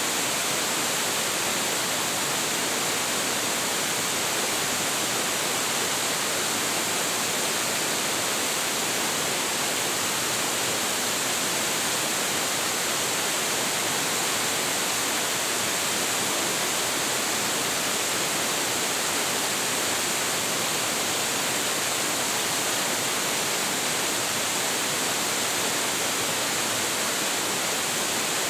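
Large waterfall with heavy flow: water plunging into its pool, a steady, even rush with no breaks.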